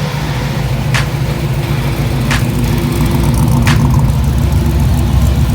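Car engine idling steadily with a deep, even rumble, and a sharp click about every second and a half.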